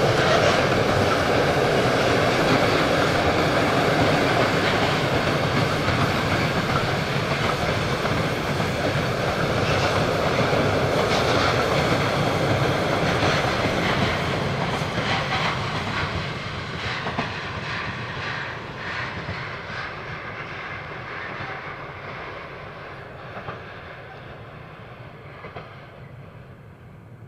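A train running past on the track, wheels rumbling with a clickety-clack over the rail joints, then fading steadily into the distance over the second half.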